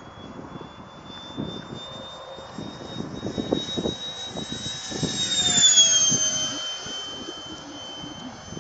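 ParkZone Habu's electric ducted fan whining as the model jet makes a pass: the whine swells, peaks about six seconds in and drops in pitch as it goes by. Wind gusts buffet the microphone.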